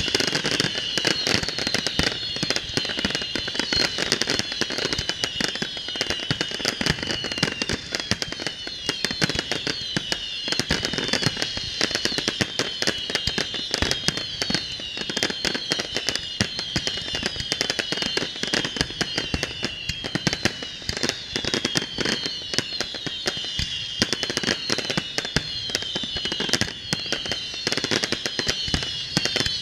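Fireworks display: a dense, unbroken barrage of shell bursts and crackling, with high falling whistles repeating all through.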